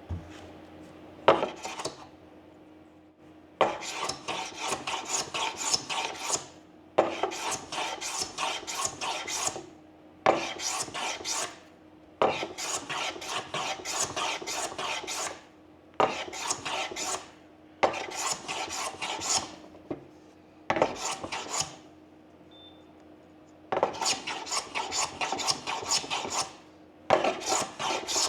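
Hand tool working away the old ebony front splice of a snooker cue. It makes about ten runs of quick rasping strokes, each a second or two long, with short pauses between them.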